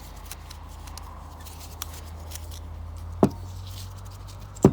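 Light ticks and handling noises as a small carburetor is taken apart with a flat screwdriver, with one sharp knock about three seconds in and another at the very end, over a steady low hum.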